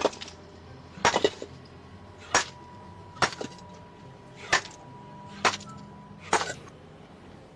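A series of about eight sharp knocks or blows, roughly one a second, with a quick double strike about a second in.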